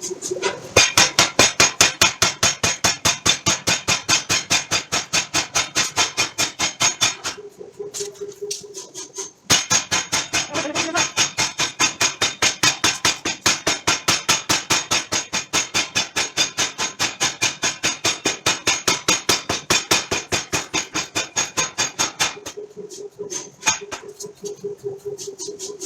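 Mechanical forging hammer striking hot steel in a rapid, even rhythm of about six blows a second. It stops twice for a couple of seconds, leaving a steady low hum.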